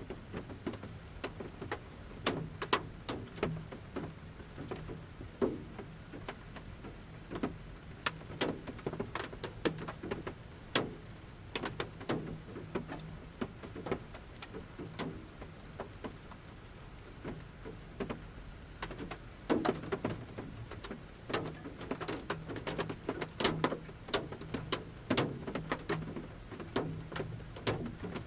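Large raindrops falling from the forest canopy onto the roof of a camper van, heard from inside: irregular taps and knocks on the roof at uneven intervals, in denser clusters at times.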